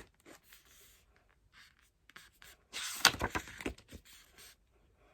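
Pages of an album photobook being turned and handled: paper rustling with a few sharp clicks, loudest in a burst a little after the middle.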